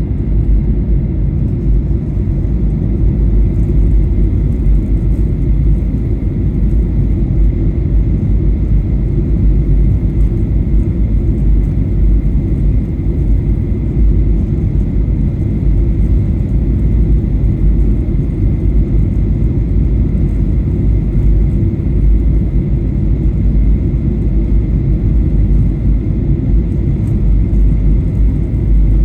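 Steady in-flight cabin noise of a Boeing 737-800: a constant deep rumble of its CFM56 jet engines and airflow, with a faint steady high whine over it.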